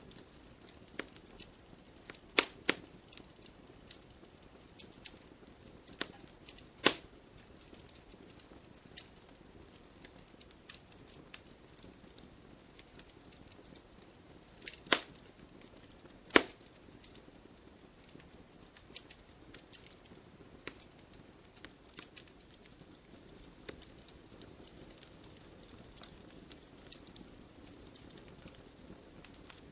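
Wood campfire burning: irregular sharp crackles and pops over a soft low hiss, with a few louder snaps standing out among the smaller ticks.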